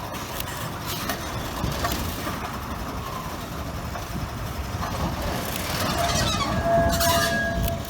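Narrow-gauge sugar-railway train running, a steady rumble that grows louder in the last couple of seconds, with a brief steady high tone near the end.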